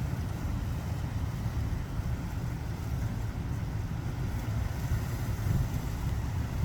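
Tropical-storm wind buffeting the microphone: a steady low rumble that swells and eases, with a faint hiss above it.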